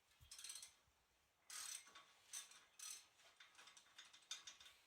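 Hand ratchet wrench clicking in a series of short strokes, turning a bolt.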